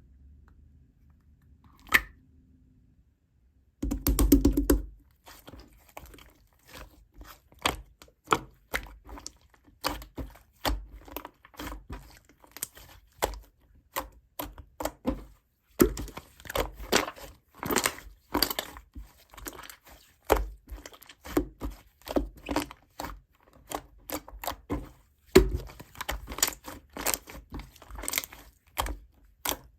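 Close-up handling sounds: a single sharp click about two seconds in, a louder thump about four seconds in, then a rapid, irregular run of crisp clicks, crackles and crinkles.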